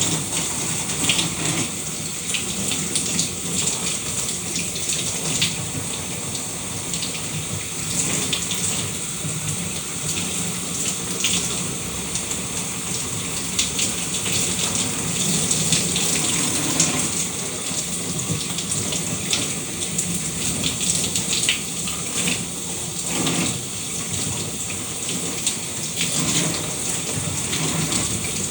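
Shower water running steadily, a continuous hiss of spray with many small splashes as the water hits the surface.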